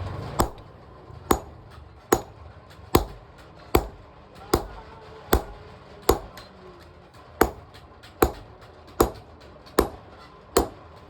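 Blacksmith's hammer striking steel on an anvil in a steady rhythm of about five blows every four seconds, each blow with a short metallic ring.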